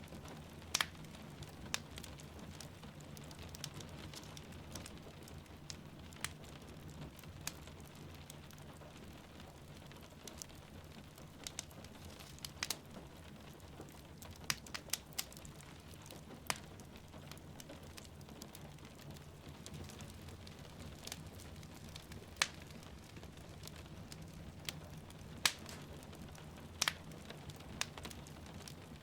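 Wood fire crackling with irregular sharp pops a few seconds apart over a steady soft hiss of rain falling.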